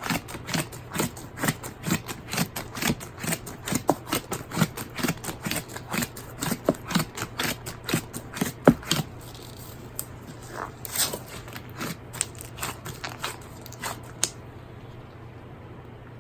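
Slime being kneaded by hand, giving a quick run of sticky clicks and pops, several a second, that thins out after about nine seconds and stops a couple of seconds before the end.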